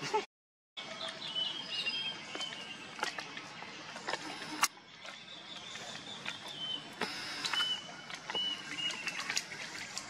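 Small birds chirping outdoors, short hooked calls repeated over a steady hiss, with a few sharp clicks. The sound cuts out completely for about half a second near the start.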